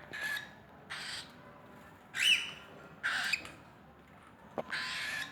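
Sun conure giving five harsh, loud squawks in a row, the loudest about two seconds in, with a short click just before the last one.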